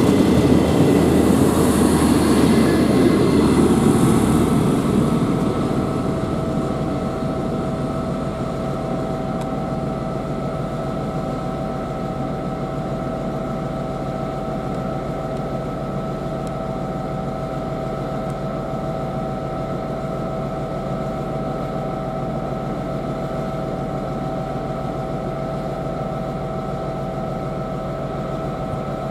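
A train's engine running. It is loud and rough for the first five seconds or so, eases off, then settles into a steady hum with a few held tones.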